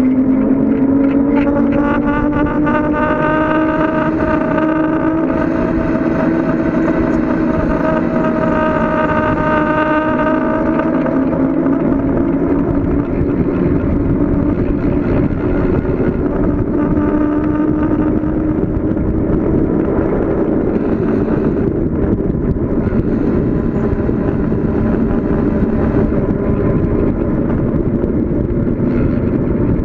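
Steady rushing wind and road noise while riding a bicycle downhill at speed, with a humming tone that slowly rises in pitch through the first half and then fades into the rush.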